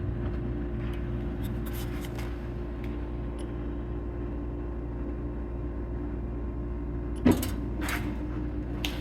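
Lincoln Tomahawk 375 plasma cutter with its onboard air compressor running: a steady low hum with a low pulse repeating a couple of times a second. A sharp click about seven seconds in.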